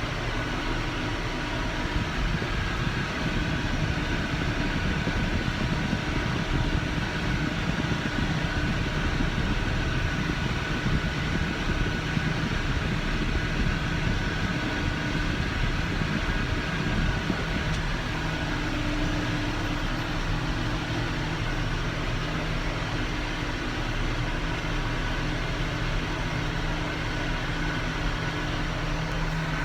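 Tractor engine running steadily while pulling a round baler through the alfalfa windrows, a constant drone with a steady hum.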